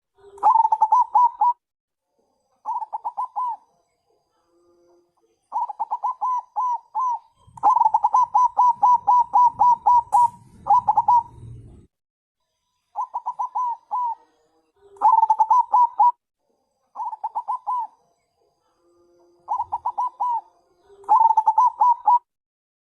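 Zebra dove (perkutut bangkok) calling in repeated bursts of quick, staccato cooing notes, about ten bursts separated by short pauses, some opening with a single lower note. The call is the calling-type song used as a lure to get other perkutut to answer. A low rumble runs under the calls in the middle.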